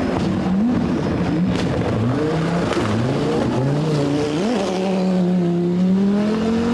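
Group B rally car engine revving hard, its pitch rising and dropping several times in quick succession through gear changes and throttle lifts, then settling low and climbing steadily in a longer pull near the end.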